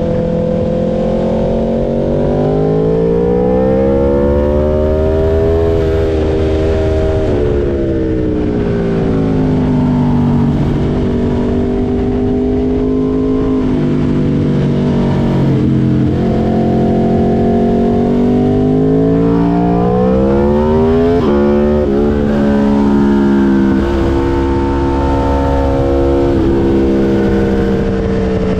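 2022 Aprilia RSV4's 1100 cc V4 engine, breathing through an SC Project S1 titanium exhaust, heard on board at speed. The revs climb and fall over and over as the rider accelerates, shifts and slows, with a quick run of sharp rises and drops in pitch a little past twenty seconds in.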